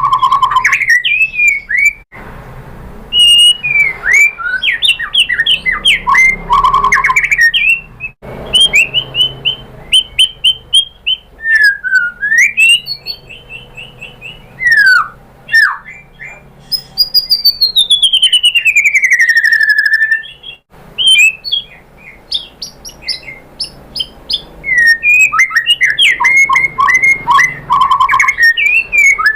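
White-rumped shama singing a loud, varied song of clear whistles, quick chirps and trills, with one long falling whistle in the middle. The song breaks off abruptly a few times and starts again.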